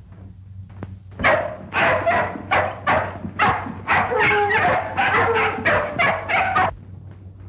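A dog barking in a quick run of about a dozen barks, starting about a second in; some are drawn out into yelps.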